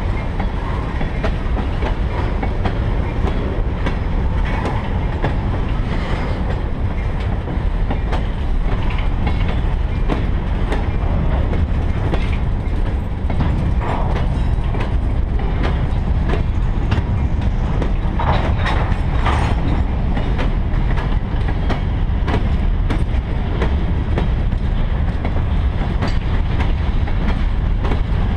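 Freight cars (tank cars, then covered hoppers) rolling past at close range: a steady heavy rumble of steel wheels on rail with a running clickety-clack of wheels over rail joints.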